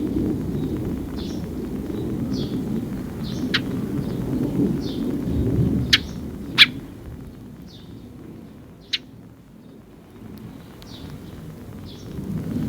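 A sparrow chirping over and over, about one short call a second. A few sharp clicks stand out over the calls, and a low rumble runs underneath that dies down midway and comes back near the end.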